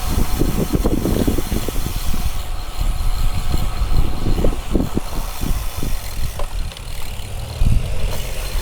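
Wind buffeting the microphone in irregular gusts over a steady low rumble of road noise.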